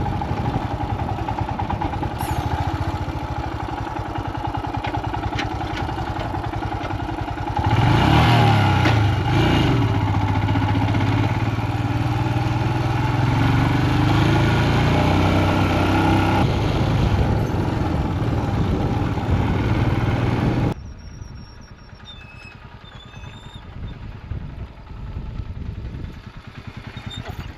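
Royal Enfield Himalayan single-cylinder motorcycle engine running under way on loose gravel and sand, mixed with wind and road noise. About 8 s in it gets louder and the engine pitch rises and falls as the rider works the throttle through the sand. Near 21 s the sound cuts abruptly to a much quieter background.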